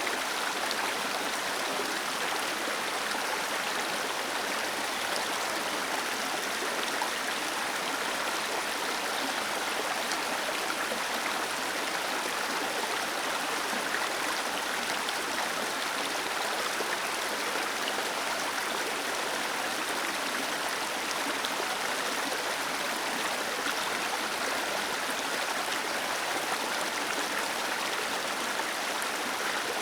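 A small waterfall with water cascading and splashing steadily, an even rushing hiss with no breaks or changes.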